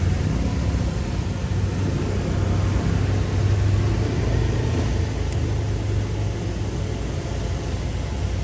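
Heavy diesel engine of earthmoving machinery running steadily with a low hum.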